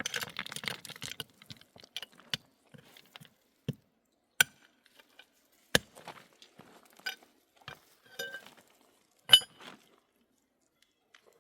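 Dishes or glassware being handled: a rustling scrape at the start, then scattered clinks and knocks, three of them sharper, the loudest near the end.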